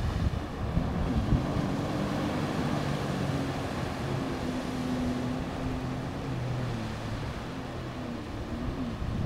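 Jet ski engine running steadily, its pitch rising a little about a second in and falling away near the end, over a hiss of water and wind.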